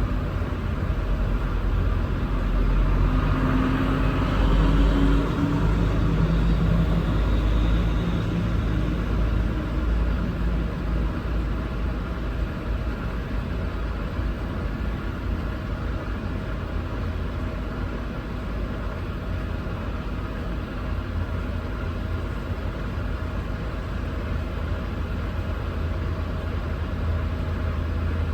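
Semi-truck diesel engine pulling away: the engine note climbs and steps through the first gears for several seconds, then settles into a steady low rumble while cruising.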